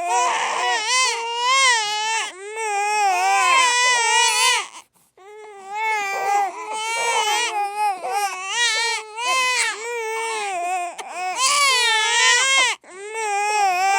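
A baby crying hard in long, wavering wails. The crying breaks off briefly about five seconds in and again near the end.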